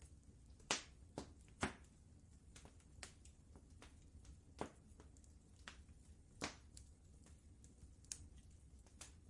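Wood fire crackling in a fireplace, with irregular sharp pops, a few louder ones in the first two seconds, over a faint low steady rumble.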